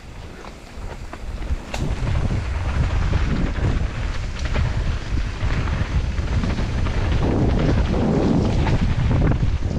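Wind buffeting a GoPro's microphone on a mountain bike riding downhill, with scattered knocks and rattles from rough ground. It swells over the first couple of seconds, then stays loud and steady.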